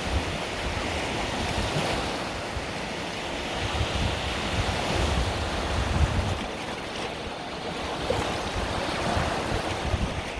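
Mediterranean sea waves washing onto the beach in a steady surf wash, with wind buffeting the microphone in low rumbling gusts, strongest about midway through.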